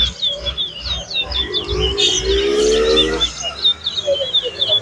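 Caged competition songbird singing a fast run of short, high chirping notes, many to the second, with a short lull a little past the middle.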